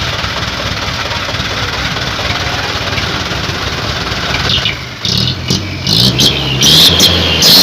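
Truck engine running steadily through a Sulawesi-style 'chung' exhaust. About five seconds in, it gives way to a louder sound with sharp high ticks and shifting low tones.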